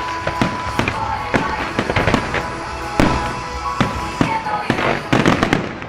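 Fireworks bursting in quick succession over pop music played through loudspeakers, with a dense volley of bangs near the end. The music and the bursts then stop abruptly.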